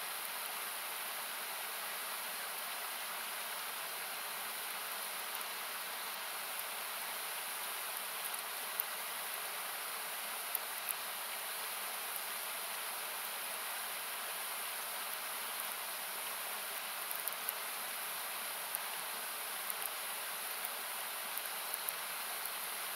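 Steady rushing of a nearby river, made thin and hissy by equalizing out parts of the noise, with a wood campfire crackling and popping now and then, more often in the second half.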